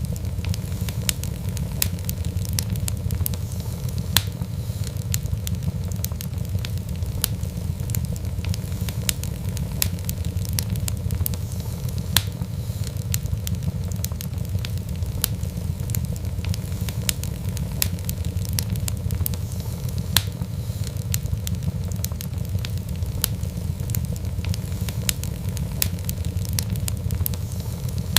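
Fireplace fire crackling with many small pops and an occasional louder snap, over a steady low rumble of the flames.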